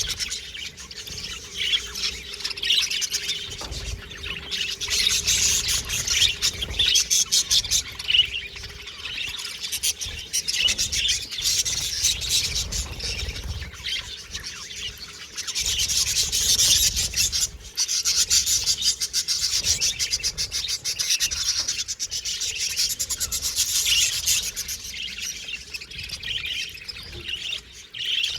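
Budgerigars chirping and chattering continuously, mixed with rapid dry clicking and rasping, with busier spells about five seconds in and again around the middle.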